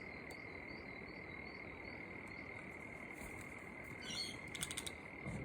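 A steady, high background frog chorus, with a few short bird chirps about four seconds in.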